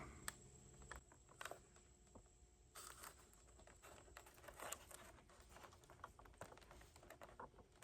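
Near silence with faint, scattered small clicks and rustles: hands handling and pushing together the thin servo wire connectors inside an RC airplane.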